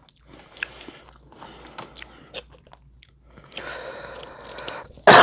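Close-miked chewing and biting of seafood-boil food, with crunchy clicks and wet mouth sounds in irregular spells. A loud vocal sound starts right at the end.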